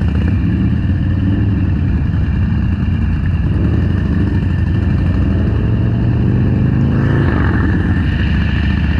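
Motorcycle engine running under way, with wind and road noise. The engine note climbs gradually through the middle, then settles.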